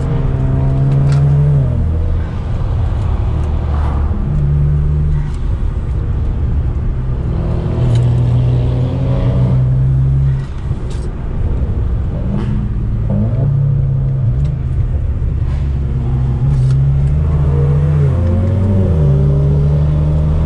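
Car engine accelerating through the gears on a climb, its pitch rising and then dropping back at each shift, several times over.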